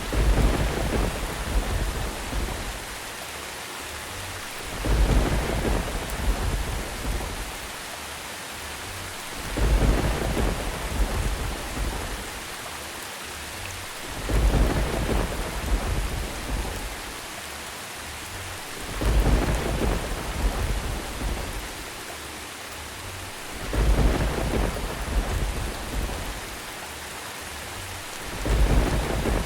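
Steady rain falling, with deep thunder rumbles that swell and fade at evenly spaced moments, about every four to five seconds.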